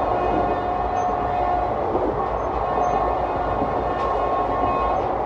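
Indian Railways ICF passenger coach running at about 110 km/h, heard from the vestibule by the door: steady rumble and rattle of the wheels on the track, with a faint whine that comes and goes.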